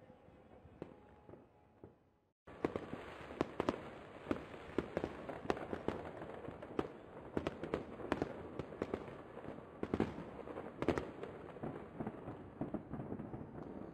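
Aerial fireworks going off: a few scattered bangs, a brief gap, then from about two and a half seconds in a dense run of rapid bangs and pops, the loudest around ten and eleven seconds in.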